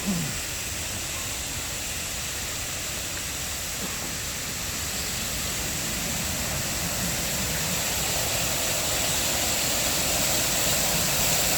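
Steady rush of water from an artificial waterfall spilling into a pool, growing gradually louder.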